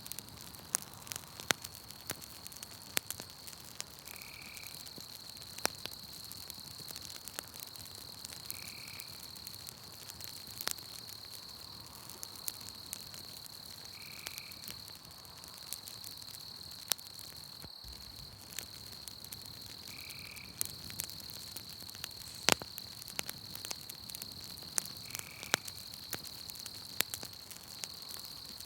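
Campfire crackling with scattered sharp pops, over a steady high trill of night insects. A short high call repeats about every four to six seconds, six times.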